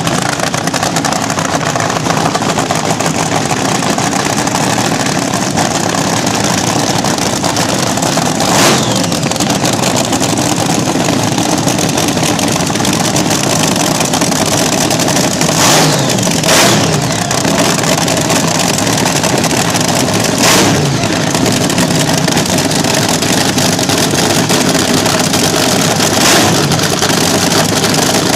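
Front-engine slingshot drag racer's engine running loud through open exhaust, blipped up into short sharp revs several times over a steady rumble.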